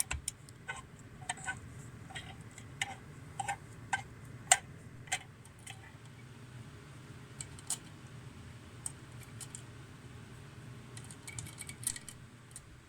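Light metallic clicks and clinks of tools and engine parts being handled during engine assembly: an irregular run of taps over the first five seconds, a few scattered ones, then a small cluster near the end, over a low steady hum.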